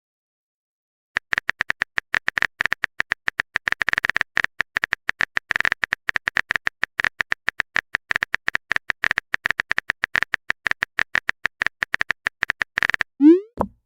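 Phone keyboard typing sound effect: a fast, irregular stream of sharp clicks starting about a second in, then a short rising 'bloop' message pop near the end.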